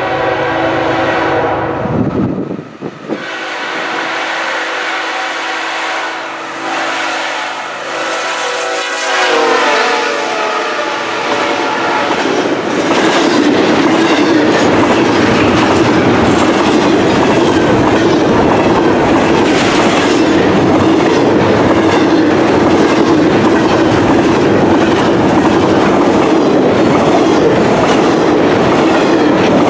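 Diesel locomotive horn sounding for a grade crossing, with a short break about two seconds in; its chord drops in pitch around ten seconds in as the lead locomotive passes. After that comes the loud, steady rumble and clatter of a double-stack intermodal train's wheels and cars rolling by at speed.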